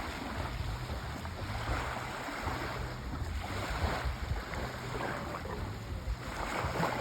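Sea waves breaking and washing in, a steady rush that swells every two to three seconds, with a low wind rumble on the microphone.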